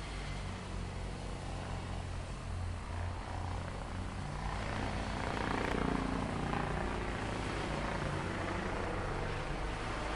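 Steady low drone of heavy machinery engines on a construction site, swelling slightly about halfway through.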